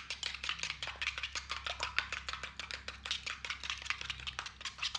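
Eggs being beaten by hand in a bowl: a utensil clicking rapidly and steadily against the side of the bowl, several strokes a second.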